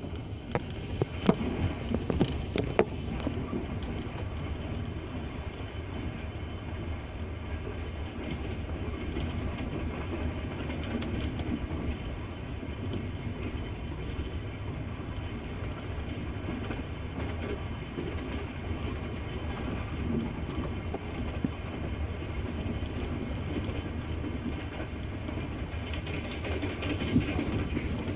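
Double-decker passenger train running past, its wheels clattering over the rail joints: sharp clicks in the first few seconds, then a steady rumble of the coaches rolling by, with another click near the end.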